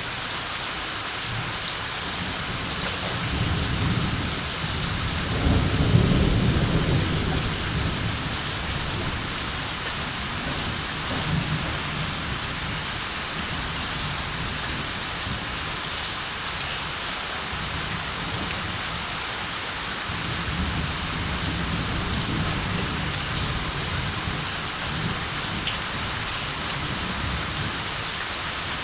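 Steady rain falling, with distant thunder rumbling low underneath: a longer roll swelling about five seconds in and a softer one past the middle.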